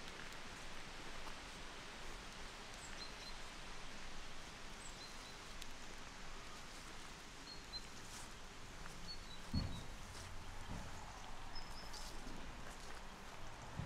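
Outdoor ambience: a steady hiss with small birds chirping briefly several times. About ten seconds in comes a single dull thump.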